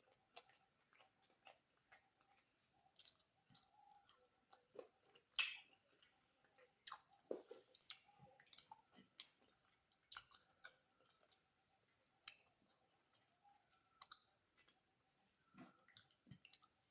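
Close-miked chewing and mouth sounds of someone eating beef biryani: irregular wet smacks and clicks, one louder smack about five seconds in.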